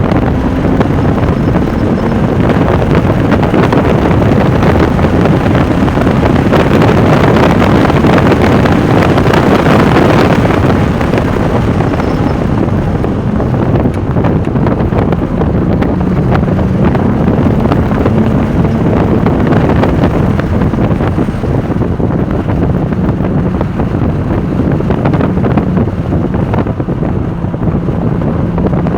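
Onboard sound of a Porsche 996 Turbo's twin-turbo flat-six driven hard on track, its pitch rising and falling with the throttle and gear changes, under heavy wind noise on the microphone.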